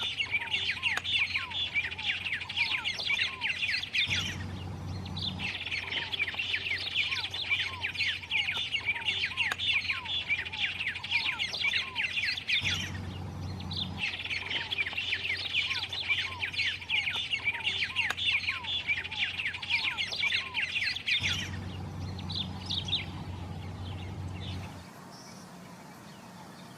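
White-rumped tanager singing: long bouts of rapid, high chirping notes, three bouts of several seconds each with short pauses between them, then a shorter, sparser run of notes near the end.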